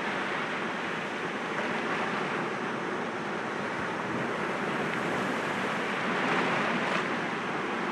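Sea waves breaking gently against rocks, a steady wash of surf that swells a little near the end.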